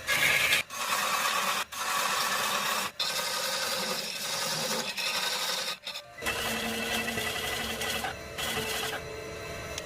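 Wood lathe running while a turning tool cuts the spinning wood: a steady scraping cut over the motor's hum, broken by several abrupt breaks where short clips are joined.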